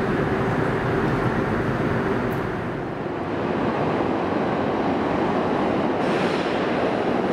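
Keisei electric train moving along the station platform: a steady rumble of wheels and running gear, with a motor tone that fades out about two seconds in.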